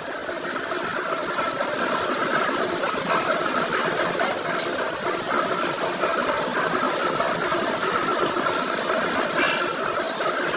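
Workshop machinery running steadily, with a wavering hum. A couple of short sharp clicks sound through it, one a little before halfway and one near the end.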